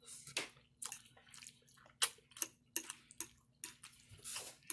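Wet chewing and lip smacks of a mouthful of spaghetti with meat sauce, close to the microphone: an irregular string of short sticky clicks and smacks.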